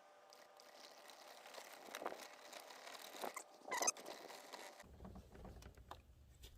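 Faint rubbing with scattered light squeaks, typical of working a plastic headlight lens by hand during compounding. One squeak stands out about four seconds in, and a low steady hum starts about a second later.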